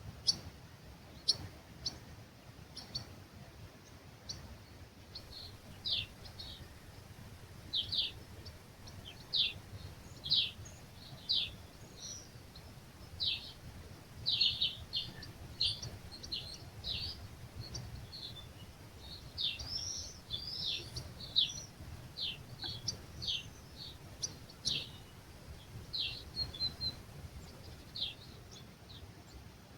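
Birds calling at dawn with short, high, falling chirps repeated about once a second, thickest in the middle, over a low steady rumble. A few sharp clicks come near the start.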